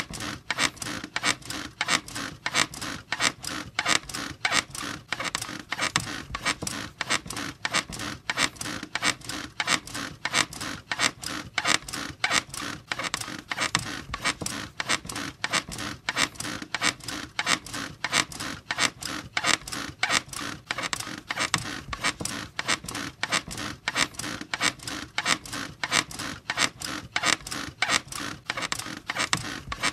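Bed squeaking over and over in a steady, quick rhythm, each squeak following the last at an even pace.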